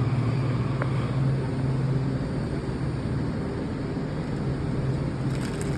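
Washington Metro 7000-series train standing at the platform, a steady low hum over a rumbling background noise, with a faint click about a second in.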